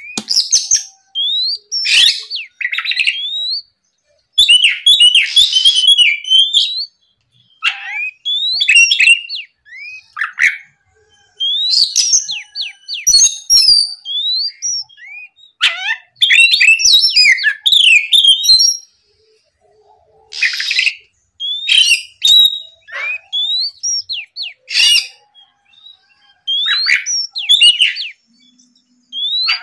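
Oriental magpie-robin (kacer) singing loudly in phrases of quick, varied whistled and chattering notes, each phrase one to three seconds long, with short pauses between.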